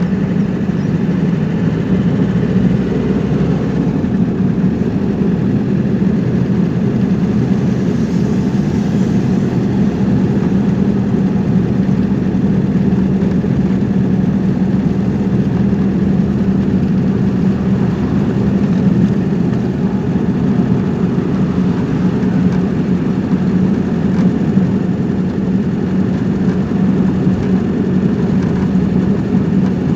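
A car on the move: steady engine and road noise with a constant low hum, unchanging throughout.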